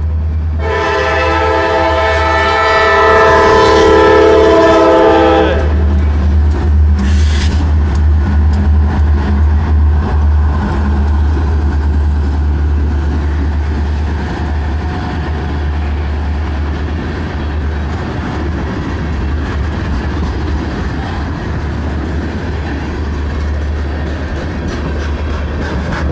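Freight diesel locomotive sounding a long chord of its air horn as it nears a grade crossing, a warning signal, over the deep rumble of its engine. The horn cuts off about six seconds in, and the train's freight cars then roll steadily past, wheels clicking over the rail joints.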